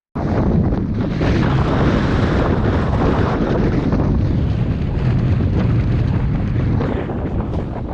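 Strong mountain wind buffeting the microphone: a loud, rumbling rush of noise heaviest in the low end, gusting unevenly, cutting in abruptly just after the start.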